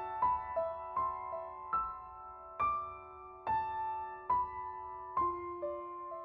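Slow, gentle piano music with no voice. Single notes and soft chords are struck roughly every half second to a second, each ringing and fading away.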